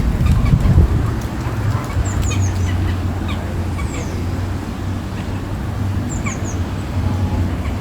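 Geese honking and ducks calling at a pond, with short high bird chirps that slide downward and a steady low rumble underneath.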